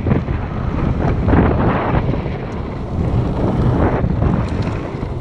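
Wind buffeting the microphone: a loud, gusty rumble that swells and eases several times.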